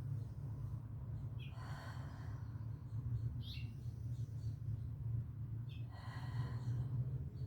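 Slow, audible breathing during a yoga pose: two long exhales about four seconds apart over a steady low hum, with a short high bird chirp repeating roughly every two seconds.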